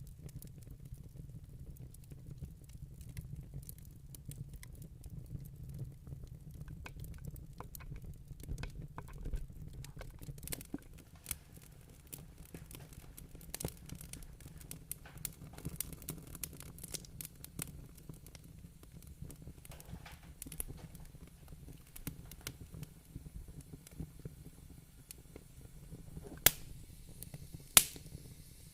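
Wood fire in a fireplace crackling: a steady scatter of small snaps over a low rumble, with two sharp, louder pops near the end.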